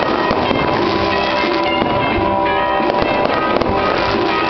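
Aerial fireworks shells bursting one after another, with recorded music playing over a stadium public-address system.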